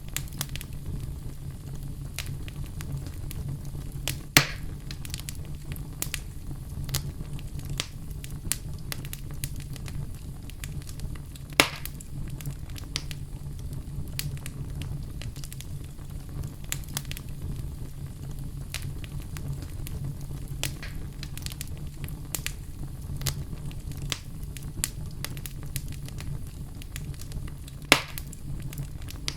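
Campfire burning with a steady low rumble and frequent small crackles, and three louder pops: a few seconds in, about twelve seconds in, and near the end.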